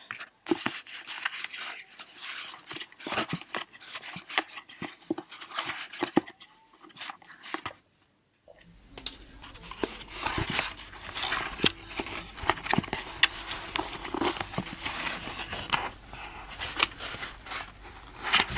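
Hands handling headphones and their packaging: irregular sharp clicks, taps, scrapes and rubbing of plastic as the back cover of an ear cup is worked off. The handling stops briefly about eight seconds in, then resumes.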